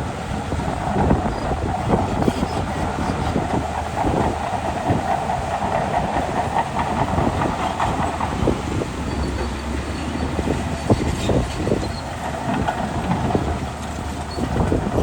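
Shantui DH17C2 crawler bulldozer working, its diesel engine running under load while its steel tracks clank and rattle steadily.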